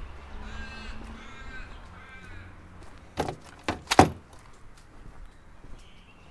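A crow cawing three times in short, slightly falling calls. This is followed by three sharp knocks, the last one the loudest.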